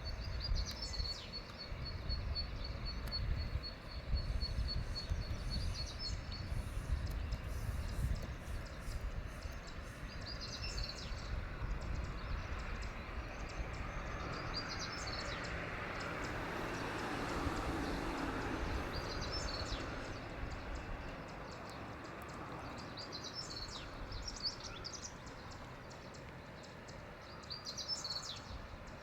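Outdoor ambience: a steady low rushing noise with small birds chirping over it. Early on, one bird gives a rapid trill of high repeated notes; after that, short high chirps come every few seconds.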